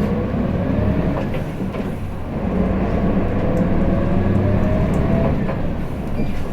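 Hino Blue Ribbon City city bus (KL-HU2PMEA) pulling away from a stop and accelerating, heard from inside the passenger cabin. A low diesel drone carries a whine that climbs in pitch, drops about a second and a half in, climbs again, and drops near the end as the bus works up through its gears.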